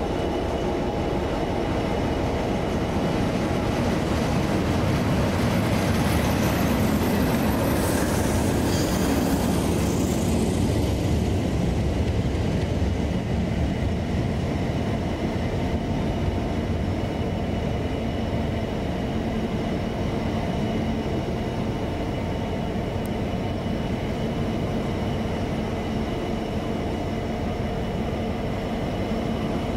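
A train running past, a steady rumble with humming tones that swells to its loudest with a high hiss about eight to ten seconds in, then eases back to a steady drone.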